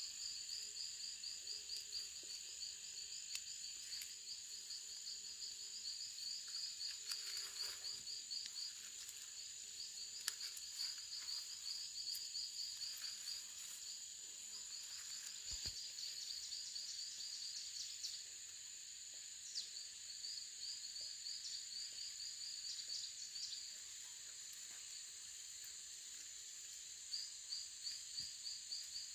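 Insects calling: a steady high-pitched drone with trains of rapid chirps over it that stop and start again, and a few faint knocks now and then.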